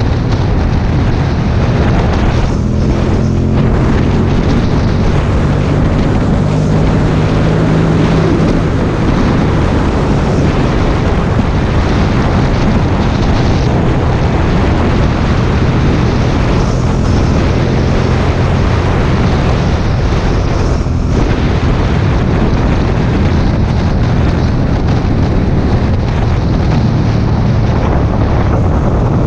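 Aprilia Dorsoduro 750 V-twin with an Akrapovic exhaust, running steadily at road speed under heavy wind noise on the microphone. The engine note dips briefly a few seconds in and again about two-thirds of the way through.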